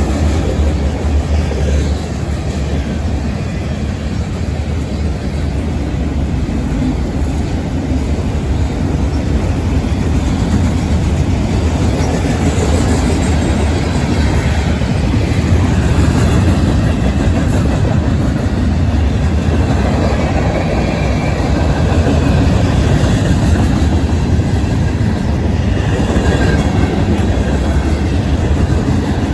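Norfolk Southern freight train passing at speed: steady, loud noise of steel wheels on rail throughout.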